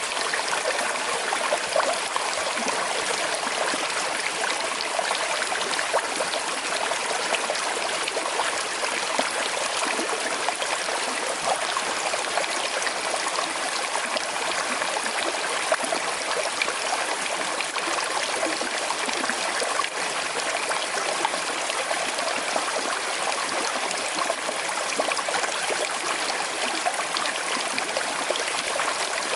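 Small river flowing slowly over stones: a steady rush of water with fine trickling and gurgling.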